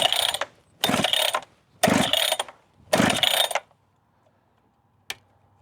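Recoil starter rope of a new Holzfforma chainsaw pulled four times, about once a second, with the engine not yet catching on a cold first start. A single sharp click follows near the end.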